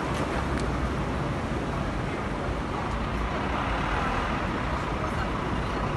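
Gale-force wind blowing steadily, rumbling on the microphone.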